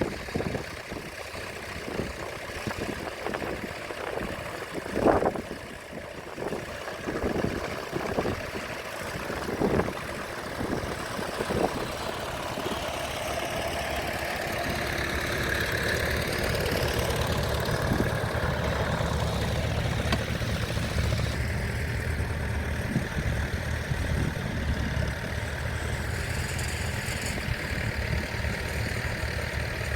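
A few scattered knocks, then an engine running steadily and getting louder from about twelve seconds in.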